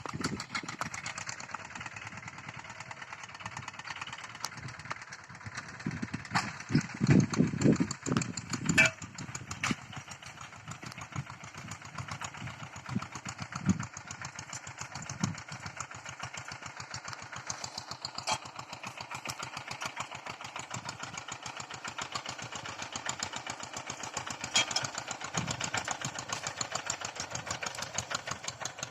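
Engine of a two-wheel hand tractor running steadily with a fast, even firing beat while it plows. A few louder low thuds come about seven seconds in.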